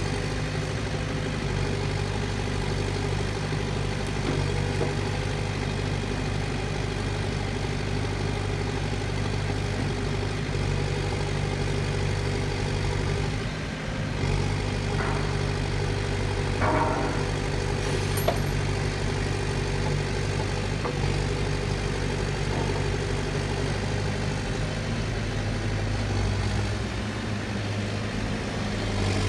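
Case 580 backhoe loader's engine running steadily at an even speed, with a couple of short higher-pitched sounds about halfway through.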